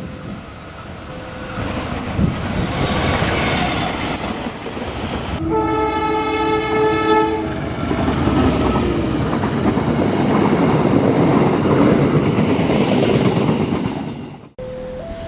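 A train horn blares a chord of several notes for about two seconds as the train approaches. The train then rumbles past with wheel clatter on the rails. A two-note level-crossing warning chime sounds faintly at the start and again after a sudden cut near the end.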